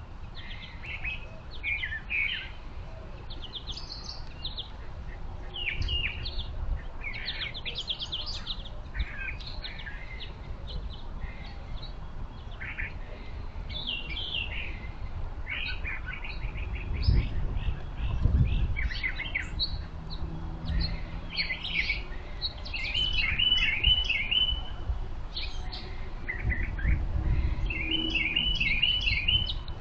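Backyard birds chirping and calling, with many short overlapping chirps and, twice in the second half, a quick rapid trill of notes. Low rumbles come in now and then, the loudest just past the middle.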